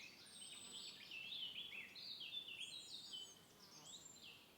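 Faint bird chirping: a quick run of short, falling chirps with a few high, thin whistles.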